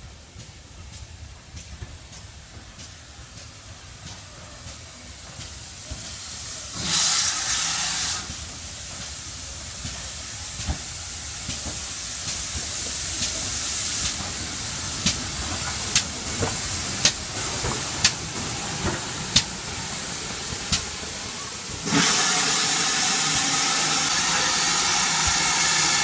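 Steam locomotive working, its rumble growing louder, with a short burst of escaping steam about seven seconds in. A run of sharp clicks about a second apart follows, then a long loud blast of steam hiss near the end.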